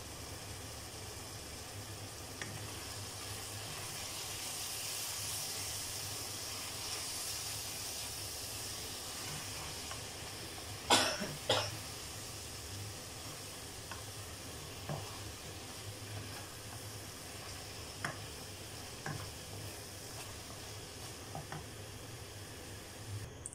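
Sausage slices and spices sizzling steadily in a hot pot while a wooden spoon stirs them, with light taps of the spoon against the pot. Two loud sharp sounds come close together near the middle.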